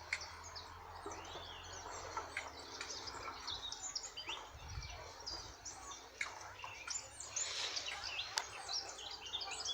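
Several small birds chirping and singing, with many short overlapping calls and a couple of sharp clicks.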